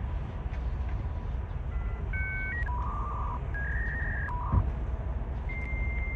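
A string of pure, steady electronic-sounding tones like a dial-up modem connecting. A low tone is held for about a second, then short tones of different pitches follow, some in pairs, with one click partway through. Near the end a long, steady high tone starts.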